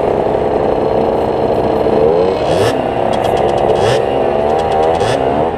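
Derbi DRD 50cc two-stroke dirt bike engine under way, revving up and dropping back as the rider works the throttle and gears, its pitch rising about two seconds in and again near the end.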